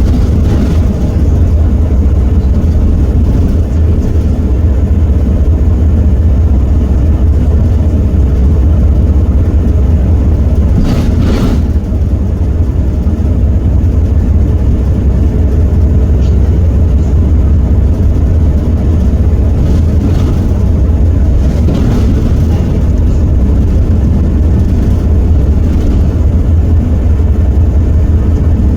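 Heuliez GX327 city bus with an Iveco Cursor 8 six-cylinder diesel, heard on board while driving: a steady, heavy low engine rumble. A brief knock comes about eleven seconds in, with fainter ones later.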